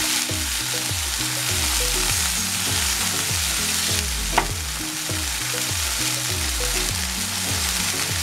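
Chicken breasts sizzling in hot oil in a frying pan, a steady hiss, with one sharp click about four seconds in.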